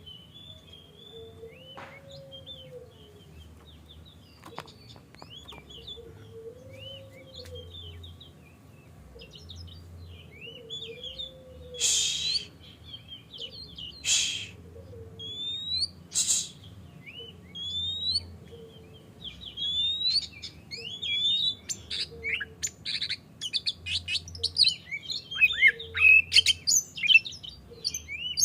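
Oriental magpie-robin (kacer) singing its full, open 'ngeplong' song. Faint and sparse at first, then loud harsh chattering calls about every two seconds with rising whistled notes, building to a dense, fast, loud stream of song in the last third.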